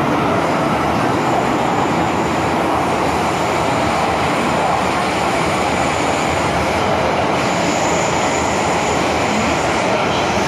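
MTR Kwun Tong line M-Train running between stations, heard from inside the car: a steady loud rushing rumble of the train in motion, with a faint high whine that fades in and out.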